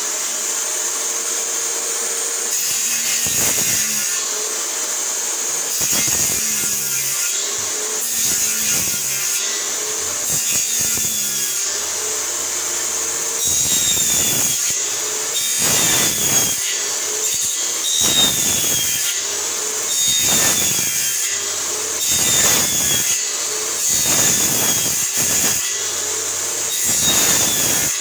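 Power saw cutting into wood in repeated passes about every two seconds, over a steady high motor whine. The blade is dull enough to make smoke.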